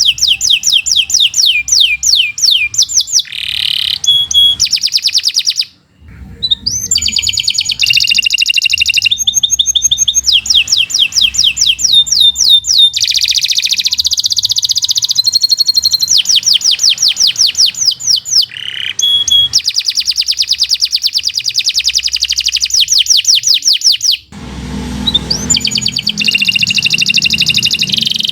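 Domestic canary singing a long song of rapid trills and rolling repeated notes, with two brief pauses, about six seconds in and about twenty-four seconds in.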